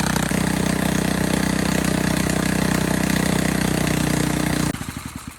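High-pressure car-wash machine running steadily, then switched off near the end, slowing to a stop in a few fading pulses.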